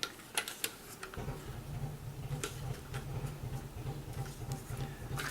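A few sharp clicks and taps of an airsoft rifle's plastic and metal parts being handled and fitted back on. A low steady hum comes in about a second in.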